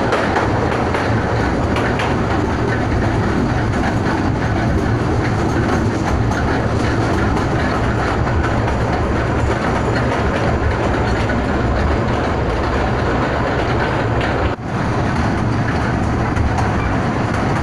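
The Kurobe Gorge Railway's narrow-gauge trolley train running steadily along the track, heard from inside an open-sided carriage: continuous noise of wheels on rails and the rattling car, with a brief dip about three quarters of the way through.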